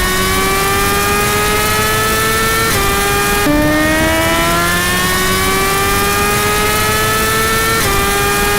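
Motorcycle engine under hard acceleration at high speed. Its note climbs steadily and drops at each upshift, about three seconds in and again near the end.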